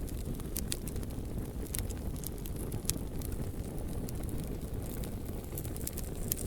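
Bonfire burning with a steady low rumble of flame and sparse sharp crackles and pops from the burning wood.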